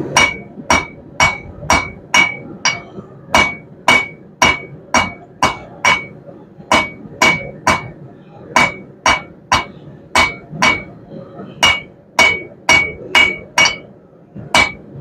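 Blacksmith's hand hammer striking a hot half-inch round steel bar on an anvil, drawing out its end. The blows come steadily at about two a second, each with a short metallic ring, broken by a few brief pauses.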